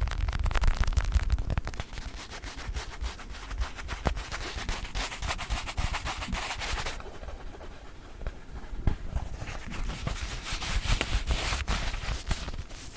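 Close-up scratching, tapping and rubbing on a small children's ball: a dense run of crackly scratches and small clicks, easing off for a couple of seconds around the middle before picking up again.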